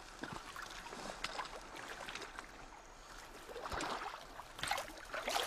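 Water splashing and trickling in small, irregular splashes and drips, louder in the second half.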